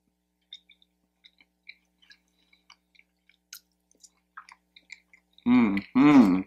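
Close-miked chewing of a forkful of scrambled eggs and potatoes: soft wet mouth smacks and clicks, scattered and irregular. Near the end comes a short two-part voiced sound from the eater, louder than the chewing.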